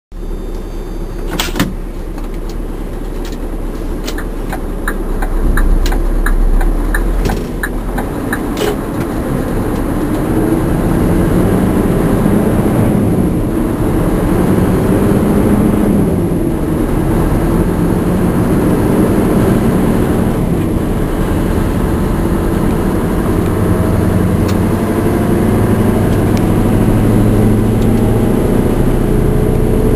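Scania R580 V8 diesel truck engine pulling hard up a climb under a heavy load of about 41 tonnes. The engine note climbs and drops several times as it works through the gears. There is a sharp click early on and a run of regular ticks around 4 to 8 seconds in.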